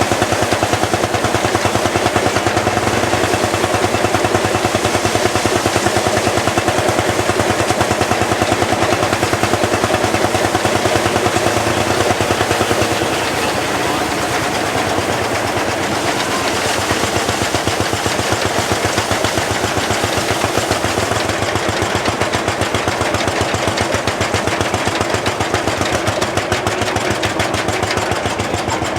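Lanz Bulldog's single-cylinder hot-bulb two-stroke engine running steadily with a rapid, even exhaust beat, under load from belt-driving a threshing machine. It drops slightly in loudness about halfway through.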